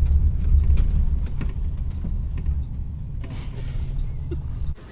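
Steady low road rumble of a moving bus heard from inside the cabin, with a few faint rattles above it; it drops away abruptly just before the end.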